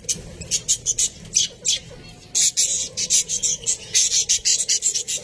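Budgerigars chattering: a rapid run of short, high, scratchy chirps and squawks, busiest in the second half.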